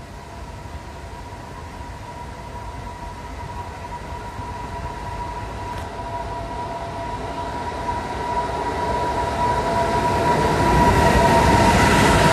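Electric freight locomotive hauling a train of tank wagons, approaching and passing close by. A steady high whine and a rumble build up and get louder throughout, and are loudest near the end as the locomotive and the first wagons go past.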